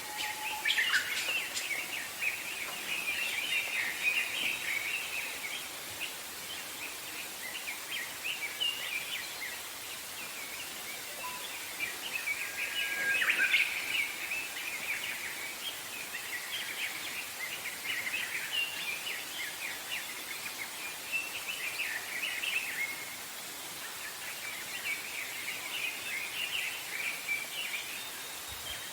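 Wild songbirds chirping and twittering, many short overlapping calls that are busiest about halfway through, over a steady background hiss.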